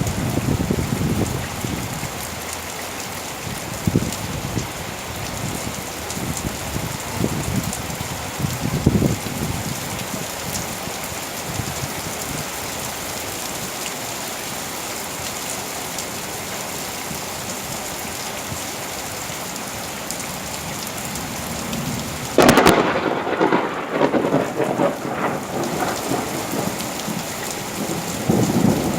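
Heavy summer rain falling steadily, with low thunder rumbles in the first several seconds. About two-thirds of the way through, a sudden loud thunderclap cracks and rolls on for a few seconds, the loudest sound here, followed by another rumble near the end.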